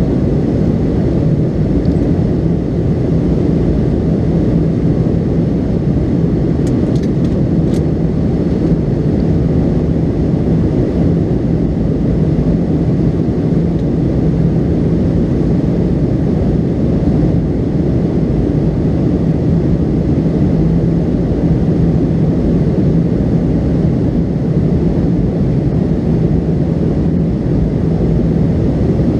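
Steady cabin noise inside a McDonnell Douglas MD-82 in flight: a low drone from its rear-mounted Pratt & Whitney JT8D turbofans mixed with airflow rush, with a steady low hum and no change in engine power.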